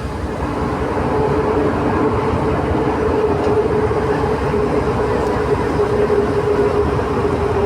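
Santiago Metro NS-93 rubber-tyred train running between stations, heard from inside the car: a steady rumble with a steady whine over it, getting slightly louder.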